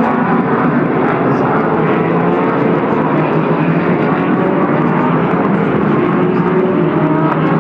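Endurance race cars running on the track, several engines heard at once as a steady mix of overlapping engine notes with no break.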